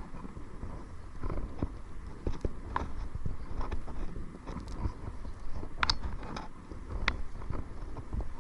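Kayak paddling: irregular knocks and splashes from the paddle, with a steady low rumble of wind on the microphone.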